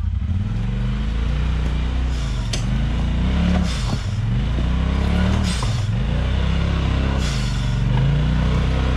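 Off-road vehicle's engine revving up and down over and over while climbing a rocky trail obstacle, its pitch rising and falling roughly every second or so. A few short bursts of noise come in between the surges.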